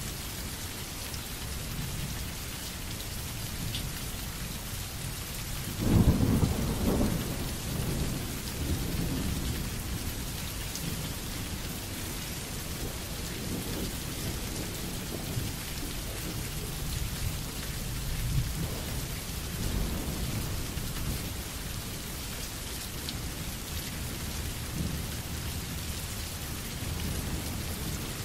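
Steady rain falling, with a low thunder rumble that starts suddenly about six seconds in and fades over a couple of seconds, the loudest moment, and a fainter rumble later on.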